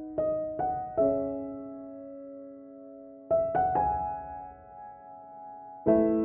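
Slow, soft keyboard music of the piano kind: three single notes struck in quick succession and left to ring, another group of notes about three seconds in, and a chord near the end.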